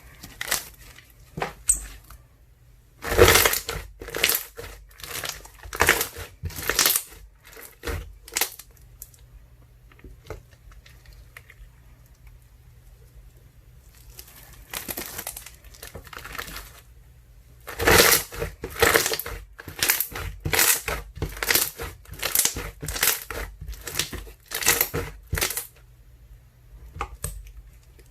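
Ice slime mixed with soothing gel being squeezed and pressed by hand, crackling and squishing in quick repeated squeezes. There are two long runs of squeezes, about one and a half a second, with quieter handling between them.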